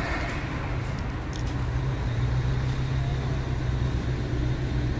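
A steady low engine hum, with a few faint clicks in the first second or so.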